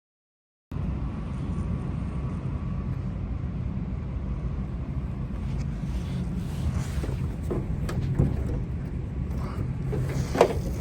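Wind buffeting the microphone outdoors: a steady low rumble that starts abruptly under a second in. A few faint clicks and knocks come in the second half, the sharpest near the end.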